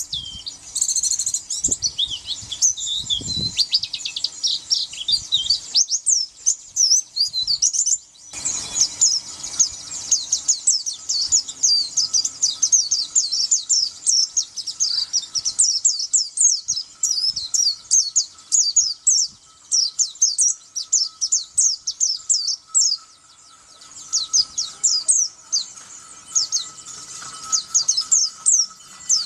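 Pleci (white-eye) songbird singing a fast, continuous stream of short, high chirps and trills, with a brief pause about a quarter of the way in and a quieter stretch later on.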